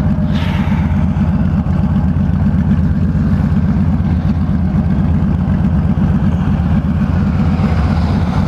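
Straight-piped Honda Valkyrie flat-six engine running steadily under way, a dense low exhaust note with a fast, even pulse.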